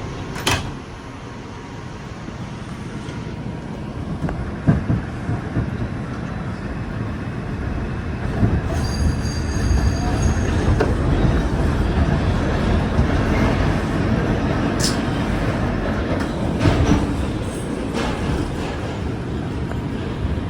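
R142 subway train running between stations. A steady rumble builds up over the first several seconds and then holds, with a few sharp clicks of the wheels over rail joints and some brief high squealing tones about halfway through.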